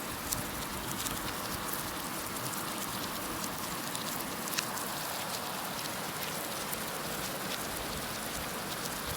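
Heavy rain falling steadily: a dense even hiss with scattered sharp ticks of single drops striking a surface.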